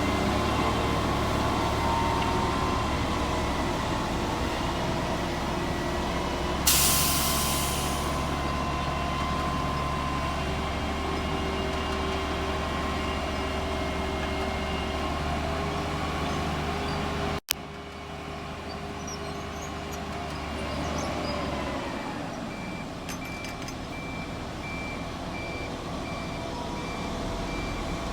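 Heavy truck engine running steadily, with a short burst of air-brake hiss about a quarter of the way in. Later a backup alarm beeps at an even pace.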